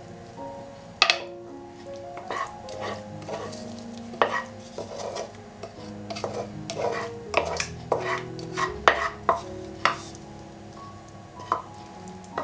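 Kitchen utensils and dishes clinking and knocking in an irregular run of sharp clinks, busiest in the second half, over soft background music.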